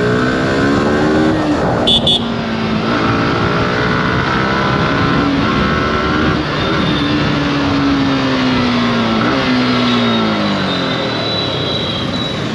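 Motorcycle engine pulling through the gears, its pitch climbing and dropping back at each shift, then falling steadily for several seconds as the bike slows before picking up again near the end. A brief sharp sound comes about two seconds in.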